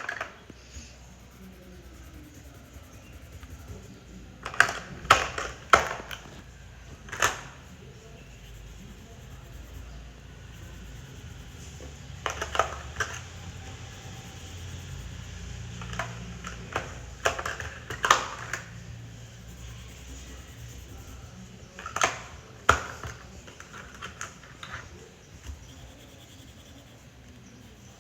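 Art supplies being handled: sharp clicks and taps in a few small clusters spread through the stretch, over a low steady hum.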